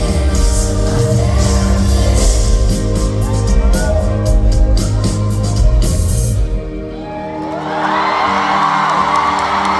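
Live pop band playing loud bass and drums with singing, the music dropping away about six and a half seconds in; the concert crowd then cheers and screams, swelling toward the end.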